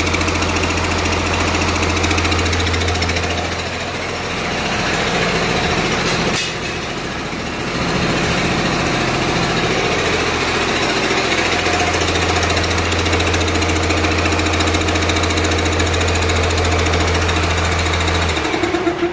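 Cummins 6BT 5.9-litre inline-six diesel running with a knocking clatter on one of its first runs after installation. A steady low hum drops out for several seconds in the middle, then returns. The engine cuts off suddenly near the end.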